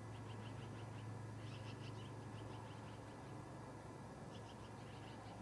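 Faint runs of quick, high chirps from a bird, coming in several short series, over a steady low hum.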